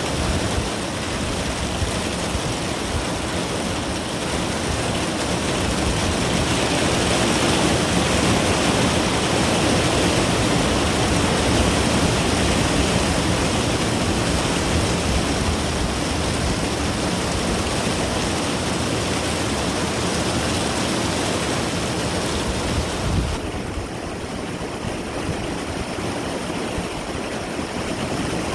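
Heavy rain pouring down in a steady, dense hiss. About 23 seconds in it turns a little quieter and duller.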